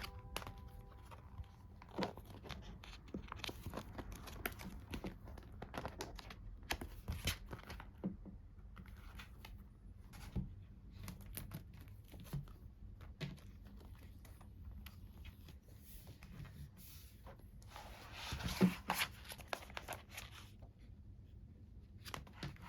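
Close handling of packaging and merchandise: scattered crinkling, rustling and small taps, with a longer, louder rustle about three-quarters of the way through.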